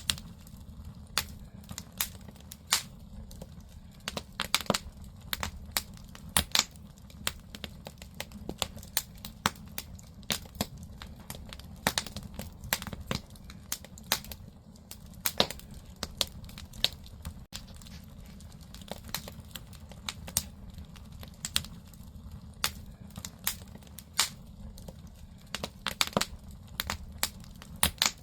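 Firewood burning in a traditional Korean agungi furnace, crackling with irregular sharp pops, several close together at times, over a steady low rumble.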